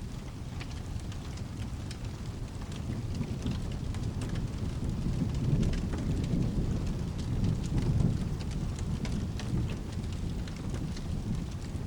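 Steady rain with a low thunder rumble that swells in the middle and fades toward the end, with scattered sharp crackles over it.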